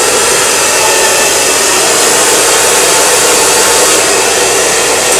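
Handheld hair dryer blowing steadily at a constant loud level while long hair is blow-dried.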